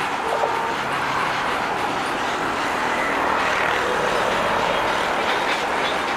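Steady noise of a freight train of loaded open coal wagons on the track, an even wash of sound with no distinct wheel clicks.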